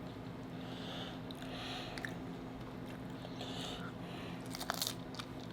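Faint mouth noises close to the microphone, chewing and breathing in short spells, with a few small clicks, over a steady low hum.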